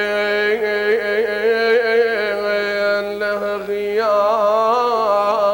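A man chanting a sung Iraqi mourning lament (na'i) with no instruments. He draws out long wavering notes, pauses briefly about three and a half seconds in, then resumes with more ornamented turns.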